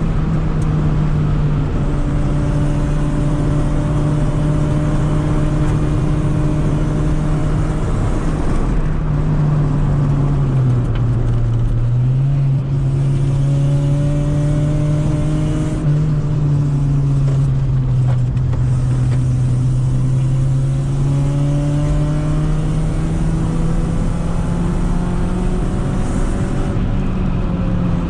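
1995 Honda Civic engine and exhaust droning steadily under way, the original exhaust holed by rust. The engine note dips briefly about ten seconds in, then climbs slowly toward the end.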